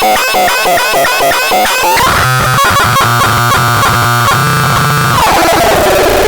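Harsh electronic synthesizer noise: quick chirping pitch sweeps, then rapidly stuttering tones over a low buzz from about two seconds in, sliding down into a noisy drone near the end.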